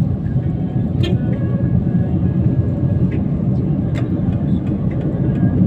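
Steady low road and engine rumble inside a moving car's cabin, with a few scattered sharp ticks.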